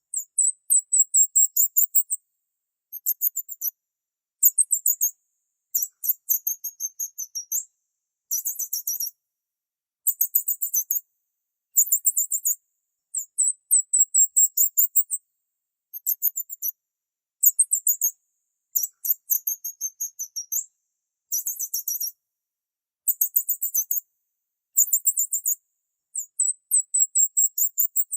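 High-pitched bird chirping: rapid trills repeated in short phrases about a second long, with brief pauses between them.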